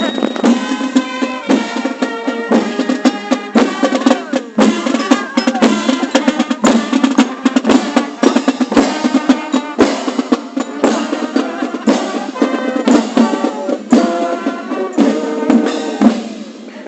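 Procession marching band playing: snare and bass drums beating quickly under a melody of held notes.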